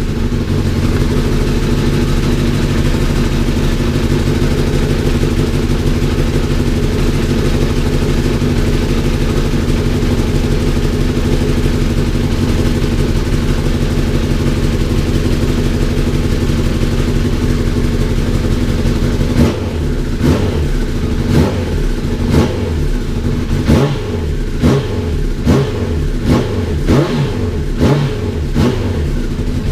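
Honda CBR1000RR inline-four engine, freshly rebuilt, idling steadily, then revved in about a dozen short throttle blips during the last third. A blow at the rear exhaust is present on this run, which the owner plans to tighten up.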